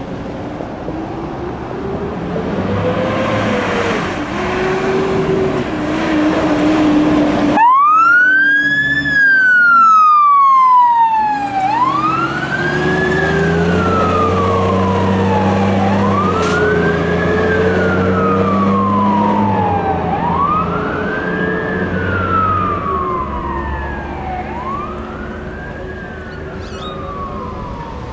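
Emergency vehicles responding with sirens: a low siren tone slowly winds up and down. About a quarter of the way in, an electronic wail siren takes over, each cycle rising in about a second and falling over about three, repeating roughly every four seconds. Under it run the lower slowly winding tone and a diesel engine's steady rumble.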